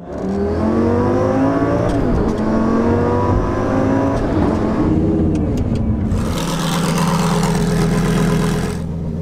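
Twin-turbo Lamborghini Gallardo engine accelerating hard through the gears on paddle-shifted upshifts, its pitch rising and dropping back at each of several shifts. After about six seconds it runs at a steady pitch with a strong hiss over it.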